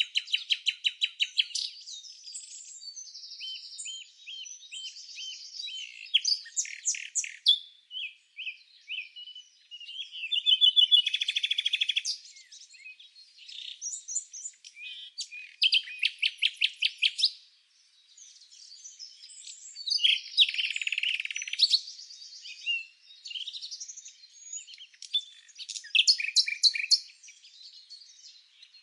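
Several small songbirds chirping and singing, with overlapping rapid trills and short chirps coming in bouts every few seconds.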